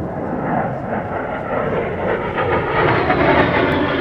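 A-10 Thunderbolt II jet flying past, the steady rushing noise of its twin turbofan engines, swelling a little about three seconds in.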